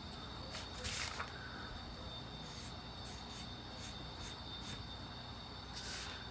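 Drawing strokes scratching across a sketching surface: about a dozen short, irregular scratches, the longest about a second in and near the end, over a steady faint high-pitched tone.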